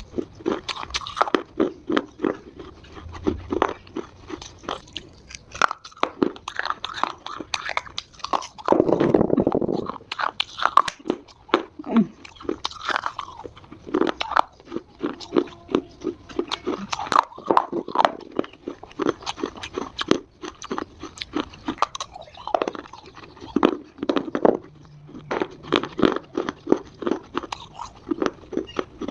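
Close-miked biting and chewing of dry Multani mitti (fuller's earth clay), a steady run of crisp, irregular crunches, with a louder, denser spell of crunching about nine seconds in.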